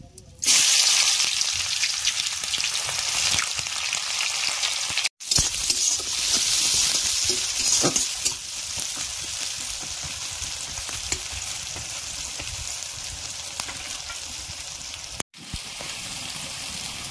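Sliced onions and whole spices sizzling in hot oil in a metal wok while a spatula stirs and scrapes them. The sizzle starts suddenly and is loudest in the first few seconds, then settles to a steadier frying hiss. It breaks off for a moment twice.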